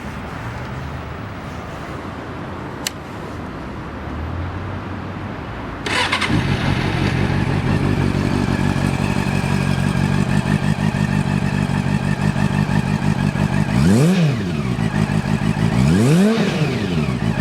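Honda CB400 Super Four VTEC Spec2's inline-four engine with a Yoshimura aftermarket exhaust, starting about six seconds in and then idling steadily. Near the end the throttle is blipped twice, the pitch rising and falling each time. Before the start there is only faint background and a single click.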